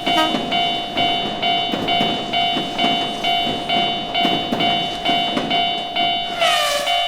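Railroad crossing bell dinging about twice a second over the rumble of a passing train. Near the end a tone glides downward in pitch.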